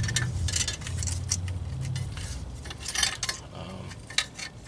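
Metal clinks and knocks of a car's new front wheel hub and its parts being handled and pushed into place against the axle and steering knuckle, with a low rumble through the first two seconds.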